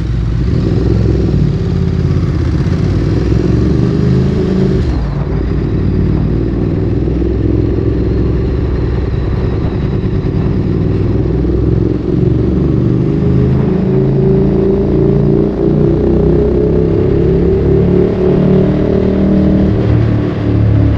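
Ducati Streetfighter 848's L-twin engine through a Termignoni exhaust, riding with the engine note rising and falling as the throttle opens and closes, then climbing steadily in pitch over the last several seconds.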